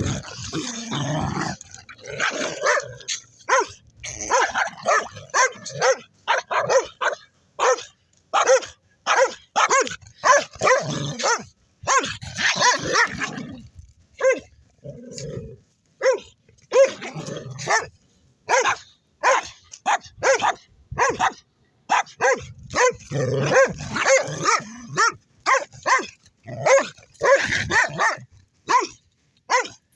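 Dogs barking over and over in play, many short barks about one or two a second with brief pauses between runs.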